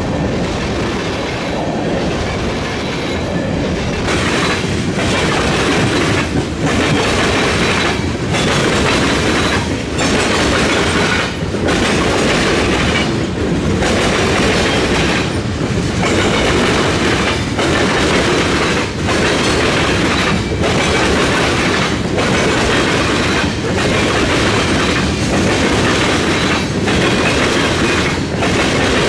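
Freight train cars rolling past at a railroad diamond crossing, with steady wheel-on-rail noise and clickety-clack. A regular beat recurs about every second and a half to two seconds.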